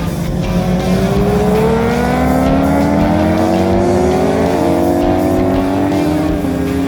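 Sport motorcycle engine accelerating on a racetrack, its pitch climbing steadily, with brief drops about four and a half and six and a half seconds in as it shifts up a gear.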